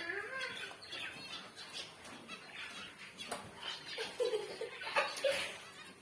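Zebra finches calling in an aviary, a steady chatter of short chirps, with a couple of sharp clicks or wing flaps.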